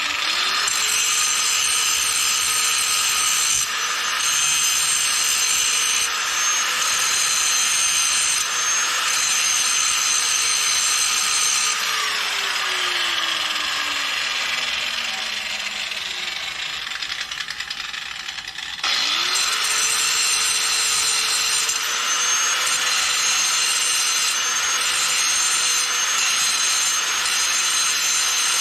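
Angle grinder grinding down fresh welds on steel. Its motor spins up right at the start and grinds steadily, then is let off about twelve seconds in and winds down over several seconds, before it is switched on again, spins back up and keeps grinding.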